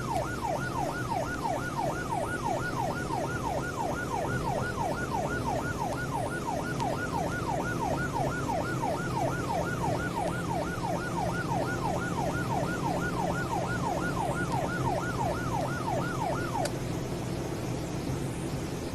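Police car's yelp siren wailing, rising and falling fast at about three sweeps a second over a steady engine hum. The siren cuts off near the end while the engine keeps running.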